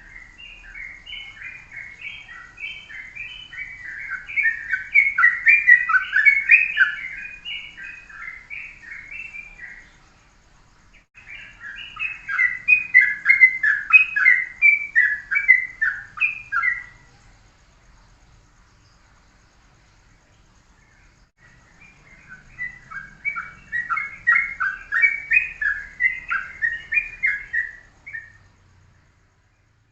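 Yellow-vented bulbul (trucuk) singing in three long bouts of rapid, bright chattering notes, with short pauses between the bouts.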